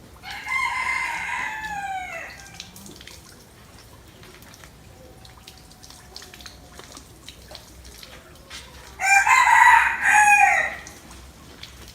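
Rooster crowing twice: one crow of about two seconds right at the start that falls in pitch at its end, and a second, two-part crow near the end.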